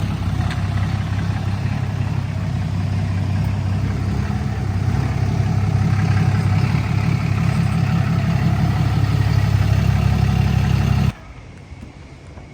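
Diesel pickup truck engine running steadily with a low rumble, getting a little louder about halfway through, then cutting off abruptly near the end.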